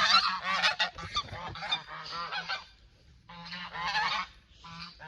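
Several domestic geese honking together in overlapping calls, with a short lull about three seconds in before they start up again.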